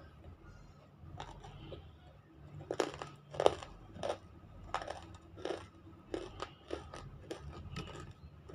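Biting and chewing a chunk of smoked, unshaped nakumatt (baked clay) close to the microphone. After about a second there is a run of sharp crunches, about one or two a second, loudest around three and a half seconds in.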